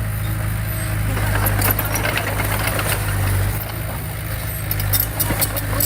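Heavy-equipment diesel engine running steadily with a low hum, with scattered rattling and clanking over it.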